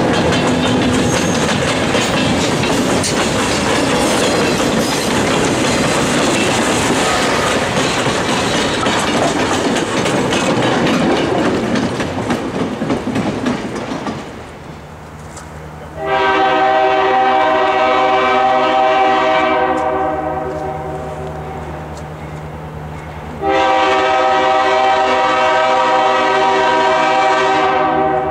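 Freight cars of a train hauled by an EMD GP9 diesel roll past, the wheels clattering over the rail joints, and the sound fades away about halfway through. Then the locomotive's multi-chime air horn blows two long blasts of about four seconds each, over a low steady engine tone.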